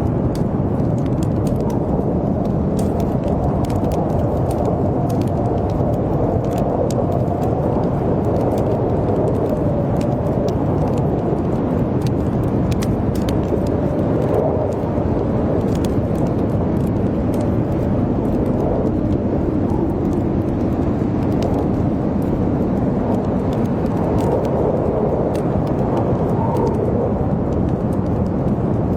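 Blizzard wind howling in a steady rush with a wavering moan, over a wood fire crackling with scattered small pops.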